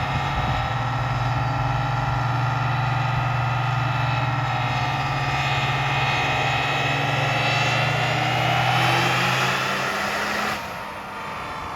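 Diesel pickup engine making a full-throttle dyno pull, its pitch rising steadily for about ten seconds as the revs climb, then dropping off suddenly near the end as the throttle is let off.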